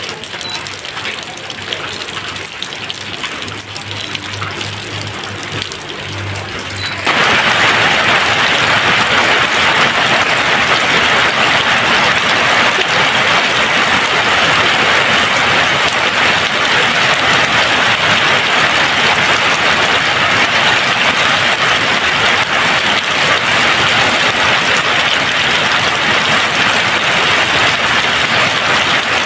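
Steady rain. About seven seconds in, it jumps abruptly to a louder, denser rain hiss that then holds steady.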